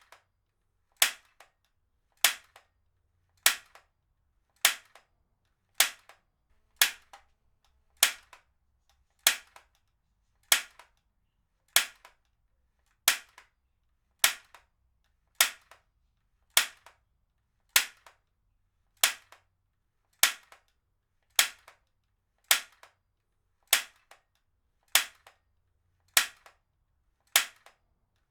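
Heavy-duty stapler firing over and over at an even pace, a little more than one sharp snap a second, each followed by a fainter click.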